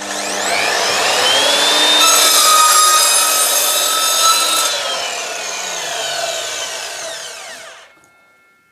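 Evolution R255SMS-DB+ double-bevel mitre saw with its multi-material blade spinning up with a rising whine, cutting through an old damp decking board for a few seconds, then winding down with a falling whine until it stops about eight seconds in.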